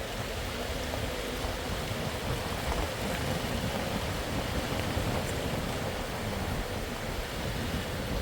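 Waterfall water rushing steadily, a full, even roar of the rain-swollen cascade.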